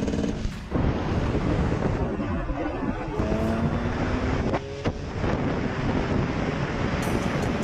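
Heavy wind buffeting the microphone over a running engine, with a steady engine note heard clearly for about a second and a half midway.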